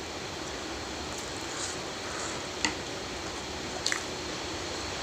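Close-miked eating: a few short, wet mouth clicks and smacks while chewing, over a steady background hiss.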